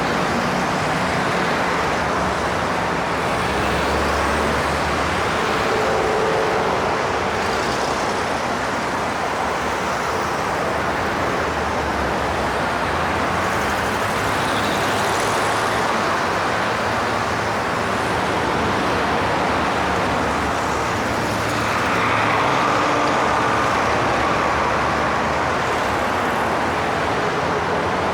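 Steady highway traffic: a continuous wash of tyre and engine noise from passing cars and trucks, swelling slightly as heavier vehicles go by.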